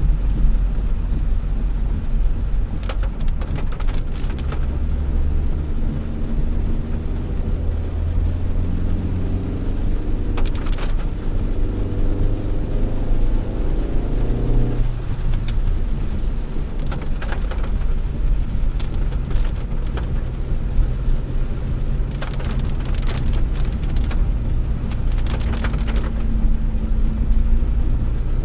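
Honda Elevate's engine and road noise heard from inside the car while driving in heavy rain, a steady low rumble throughout. The engine note climbs for several seconds and breaks off suddenly about halfway through. A few scattered sharp taps sound now and then.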